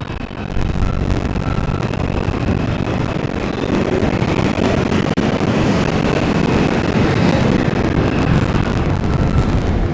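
R142 subway train running, heard from inside the car: a steady rumble of wheels on rail and running gear, with a faint high whine.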